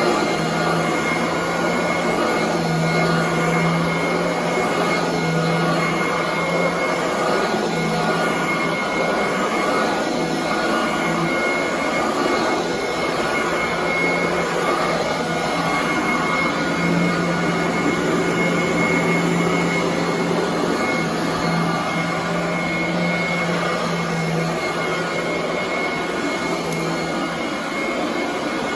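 Royal commercial vacuum cleaner running steadily while vacuuming carpet, with a steady high whine over the airflow noise and a lower hum that swells and fades irregularly.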